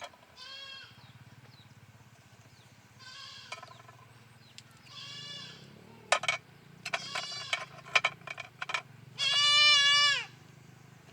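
A young goat kid bleating repeatedly, about five calls spaced a couple of seconds apart, the loudest near the end: the kid is calling for its mother, who is away feeding. A few sharp clicks and knocks come in the middle.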